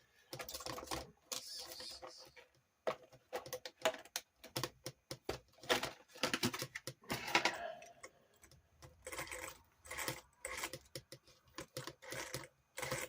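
Irregular light clicks, taps and clatter of small hard parts and tools being handled during reassembly of an RC car.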